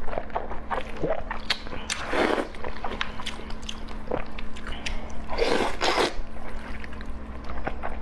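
Close-miked eating: a person chewing and biting with wet, squishy mouth clicks throughout, and two longer noisy bursts, one about two seconds in and one near six seconds. A steady low hum sits underneath.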